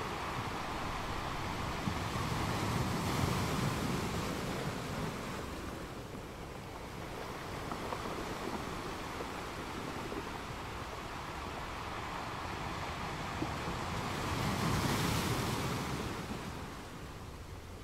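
A steady rushing noise, like moving water, that swells louder twice: a few seconds in and again near the end.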